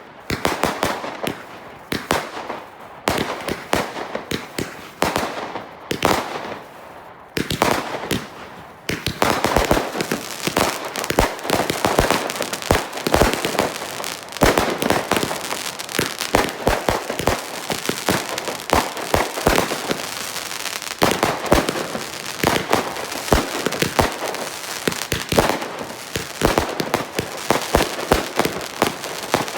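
Consumer fireworks going off: separate sharp bangs for about the first nine seconds, then a dense barrage of rapid reports and crackling that keeps up without a break.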